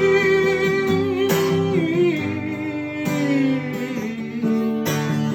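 Music: acoustic guitar strumming a song's chord accompaniment, with a sung voice holding the last note of a line and sliding lower until it fades about two to three seconds in, then guitar alone.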